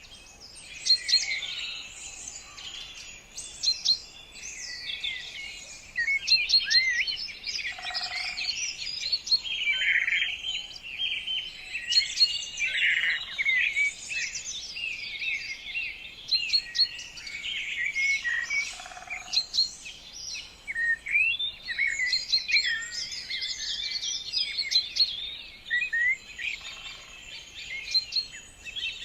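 Birds chirping and singing without pause: a dense chorus of many short overlapping calls and whistled notes.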